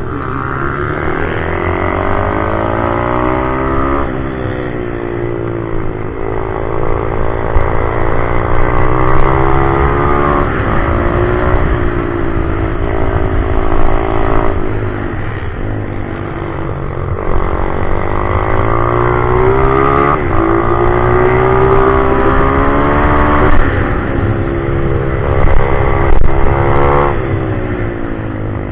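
Pit bike engine being ridden on a track, its revs climbing and then dropping back again and again, several times over.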